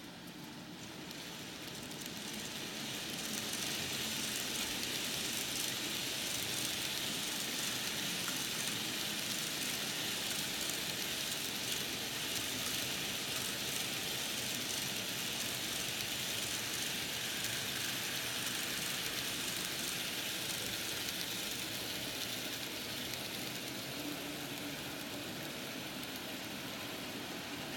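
An N-scale model train, an SBB Rola hauled by two Re 485 locomotives, running along the track with a steady high whir and rattle of motors and wheels on rail. It grows louder over the first few seconds and eases slightly near the end.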